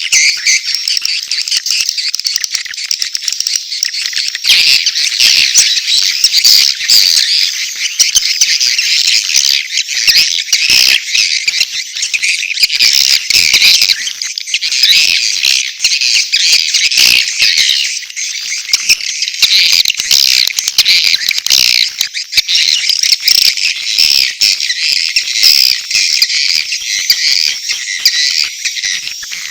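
Dense, unbroken twittering and chirping of many edible-nest swiftlets: a swiftlet-house lure recording of courtship calls mixed with chick calls.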